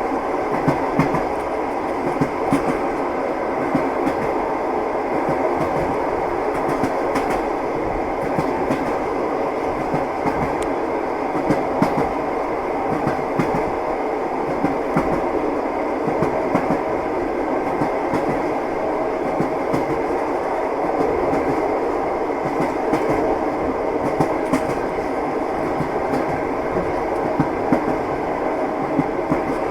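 Moving train: the wheels clatter over the rail joints as irregular clicks and knocks above a steady rolling rumble.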